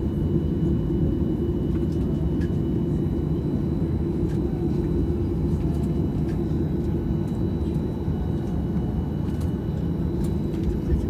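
The CFM56 jet engines of a Boeing 737-800 running: a steady low rumble with two thin, steady high whining tones above it and a few faint clicks.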